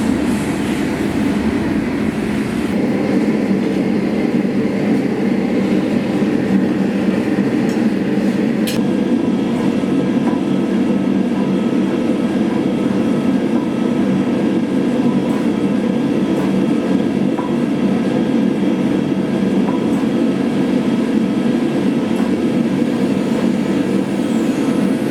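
A forge running with a steady, loud rumbling roar, with a single click about nine seconds in.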